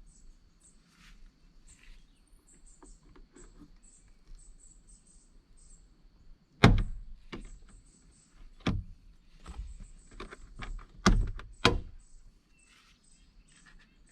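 Several sharp knocks and clunks, the loudest about seven seconds in and a pair near eleven seconds in, over steady high chirping of insects.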